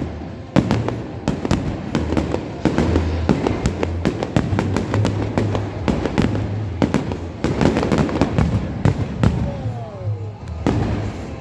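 Fireworks display: a rapid run of bangs and crackles over music with a heavy, pulsing bass beat, with a falling whistle near the end.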